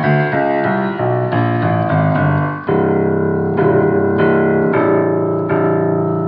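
C. Bechstein grand piano being played: a quick run of notes, then a handful of chords struck about once a second and left ringing. The worn piano, with soundboard splits and awaiting a full rebuild, has what the technician calls a bright, horrible tone with buzzers.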